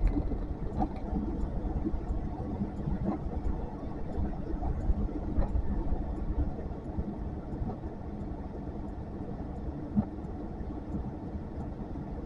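Blizzard wind gusting against the microphone: an uneven low rumble that swells and eases, somewhat calmer in the second half, with one short knock about ten seconds in.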